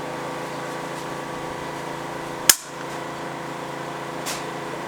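A single sharp report from a PCP air rifle firing about halfway through, with a much fainter shot nearly two seconds later, over a steady hum.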